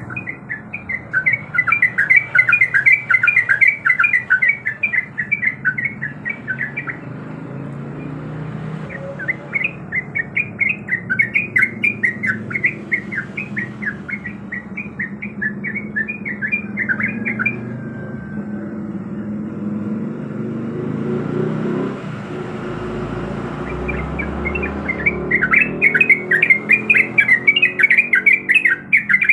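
Yellow-vented bulbul (trucuk) singing loud, rapid chattering phrases in three bouts, with pauses between them. A steady low rumble runs underneath.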